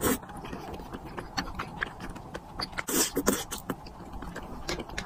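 Close-miked wet chewing and lip-smacking of chewy tteokbokki rice cakes coated in thick spicy sauce: a run of small sticky mouth clicks, with louder wet smacking bursts at the start and about three seconds in.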